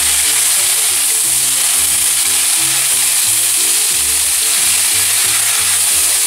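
Vegetable strips sizzling steadily in hot oil with a little water in a stainless steel wok, stirred with a plastic spoon. Background music with a moving bass line plays underneath.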